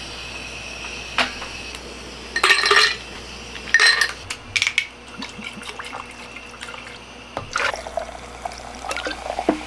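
Short splashes of liquid being poured, with clicks and knocks of things being handled in between.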